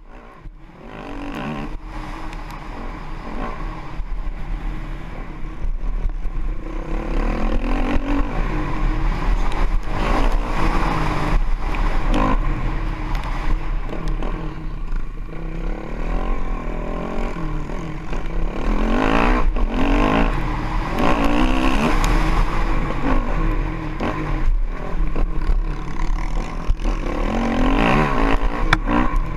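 Honda CRF450X dirt bike's single-cylinder four-stroke engine being ridden hard, its pitch rising and falling again and again with throttle and gear changes, over a steady rush of wind and track noise. It builds up over the first few seconds.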